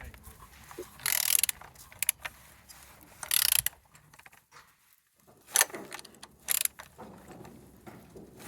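Ratchet wrench clicking in several short bursts as the Z14XEP 1.4-litre four-cylinder petrol engine is turned over by hand at the crankshaft, showing that it turns.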